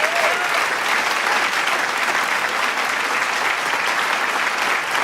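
Large crowd applauding steadily with dense clapping, and cheering voices mixed in, with a short whistle or shout just after the start.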